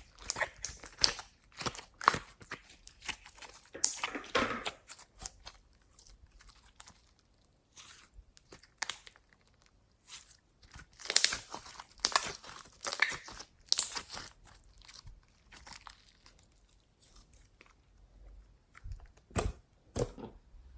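Glossy slime being kneaded and pressed by hand, giving runs of sticky crackles and pops in clusters, with two louder pops near the end.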